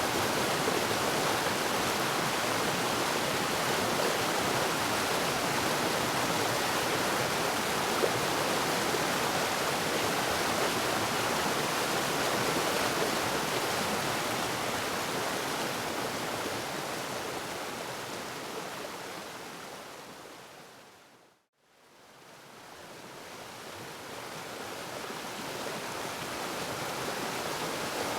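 Waterfall, a steady even rush of falling water that fades away to silence about three-quarters of the way through and then swells back up.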